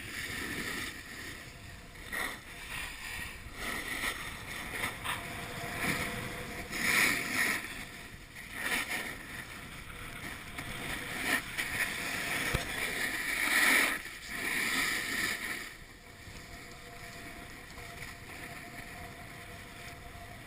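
Snowboard sliding and scraping over snow, a rushing hiss that swells on the turns, loudest about a third of the way in and again past the middle, then quieter near the end.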